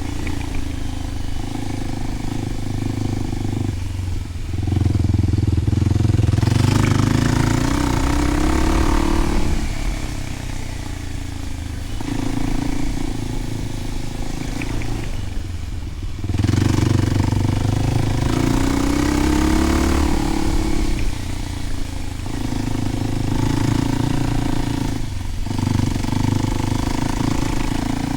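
Kawasaki KLX300's single-cylinder four-stroke engine running through a Delkevic 10-inch oval slip-on exhaust. It is opened up twice, with the pitch climbing for a few seconds each time. The throttle is chopped three times, about four seconds in, about sixteen seconds in and near the end.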